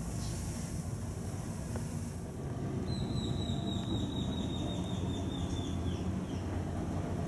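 A bird's high trill of rapid repeated notes, falling slightly in pitch, lasting about three seconds from roughly three seconds in, over a steady low rumble.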